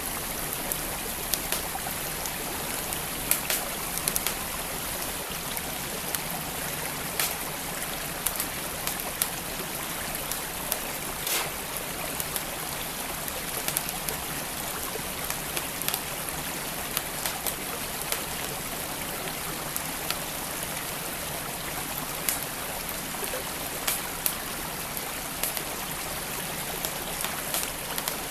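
Flowing creek water running steadily, with a wood fire crackling over it in scattered, irregular sharp pops.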